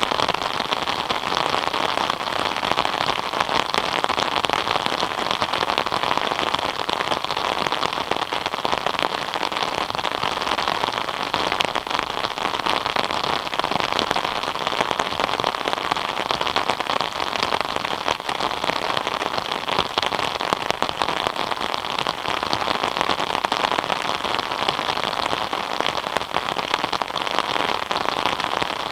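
Steady rain falling, a dense even patter of many drops hitting a surface.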